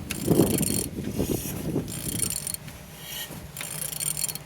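A PSA DW8B 1.9 diesel engine being turned over by hand with a wrench, in several ratcheting strokes of clicking with clunks from the rotating engine. The engine turns freely and is not seized.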